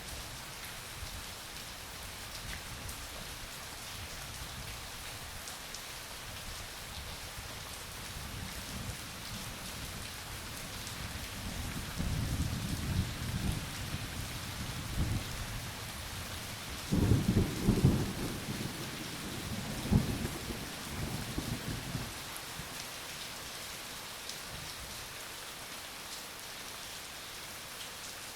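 Steady heavy rain hissing, with a roll of thunder rumbling in about halfway through. It peaks in a few loud cracks and booms and then dies away, leaving only the rain.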